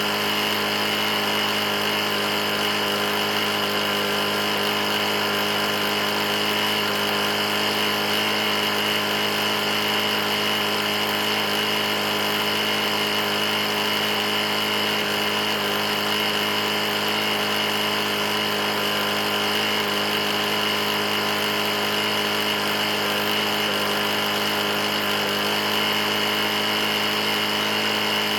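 Briggs & Stratton E450 lawn mower engine running steadily at constant speed, unchanged throughout. The engine is knocking pretty bad after being run nearly out of oil.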